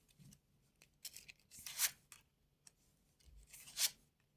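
Playing cards being handled and laid out on a table: three short swishes of card sliding over card, with a few light clicks between them.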